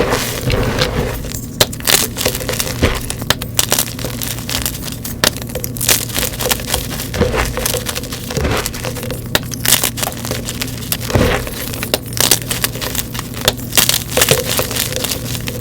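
Gym chalk being crushed and crumbled, with dense, irregular crunches and crackles throughout.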